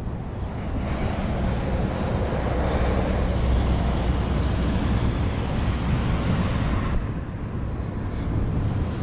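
BAe 146 jet airliner's four turbofan engines rumbling as the aircraft passes on its landing, the noise swelling to a peak about halfway and falling away about seven seconds in.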